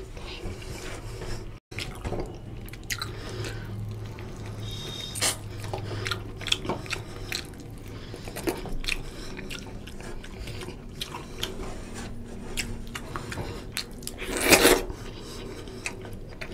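Close-miked, wet mouth sounds of someone eating rice and chicken curry by hand: chewing and smacking in many quick clicks, with fingers mixing the rice on a steel plate. One louder rush of noise comes near the end.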